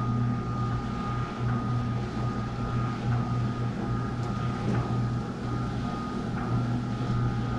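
Steady low mechanical hum with a faint high whine above it.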